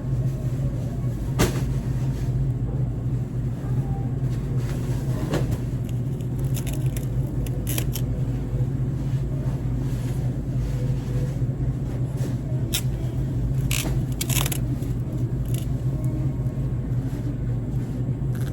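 Steady low rumble of a car driving, heard from inside the cabin, with a few scattered clicks and taps.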